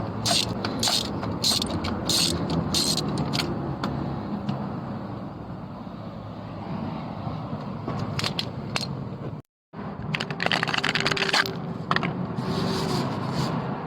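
Socket ratchet wrench clicking in quick even strokes, about three clicks a second, as a spark plug is turned in the engine. This gives way to metal scraping and handling noise after a short break.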